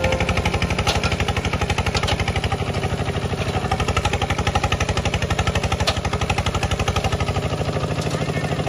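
Walk-behind tractor engine running steadily, with an even, rapid chugging.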